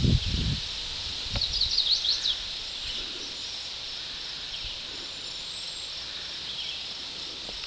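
Outdoor rural ambience: a small bird gives a quick run of high chirps about a second and a half in, with fainter high calls later, over a steady high hiss.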